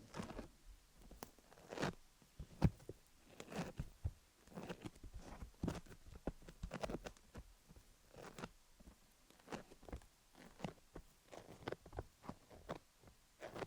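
Sticky Vaseline being worked over a rhinestone-studded dummy-head microphone: irregular tacky clicks and smacks, a few a second, coming a little quicker in the second half.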